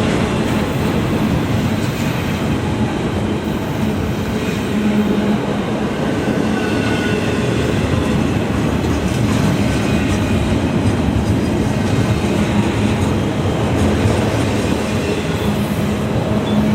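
Train rolling past close by: a steady, loud rumble of railcar wheels on the track, with faint wheel squeal now and then.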